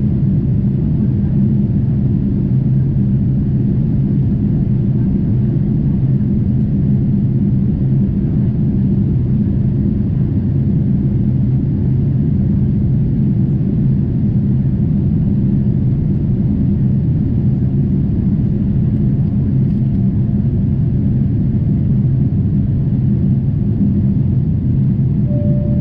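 Steady low rumble of engine and airflow noise heard inside the cabin of a Boeing 747-8 airliner in flight, with an even hum underneath.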